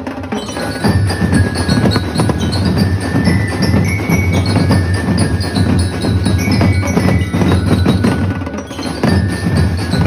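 Drum group playing a fast, dense rhythm on drums, with a high bell-like melody played over it. The full ensemble comes in about a second in.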